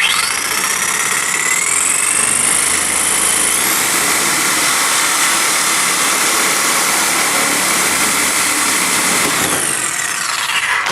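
Electric cutting tool spinning up with a rising whine, running steadily at high speed while cutting into the old plumbing pipe, then winding down with a falling whine near the end.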